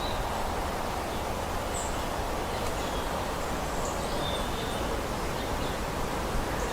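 Steady outdoor background noise with a few faint, short, high-pitched bird chirps scattered through it.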